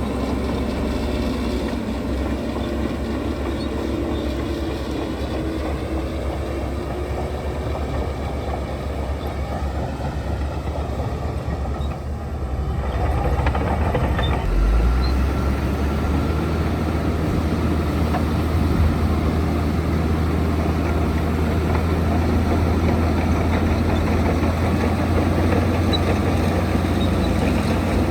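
Heavy construction machinery's diesel engine running with a steady low rumble that grows louder about halfway through, as the machine works harder.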